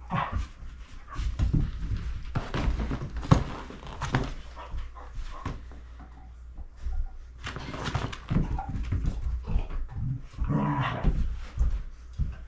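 A puppy whimpering and barking among scattered knocks and rustling, with a louder run of whining and barking around 10 to 11 seconds in.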